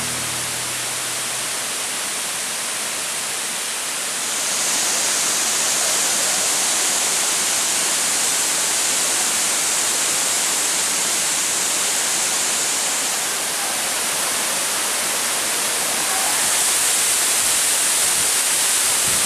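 Waterfall: a steady rush of falling water that grows a little louder about four seconds in and again near the end.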